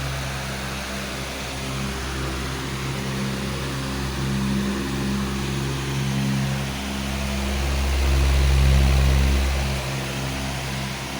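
Powerful electric fan running steadily: a low motor hum under an even rush of air, swelling slightly about eight seconds in.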